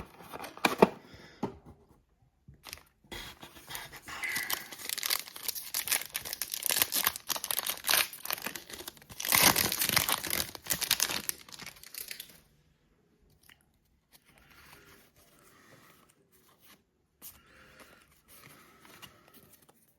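Plastic trading-card packaging being torn open and crinkled, a dense crackling rustle for about twelve seconds, then fainter rustling as the cards are handled.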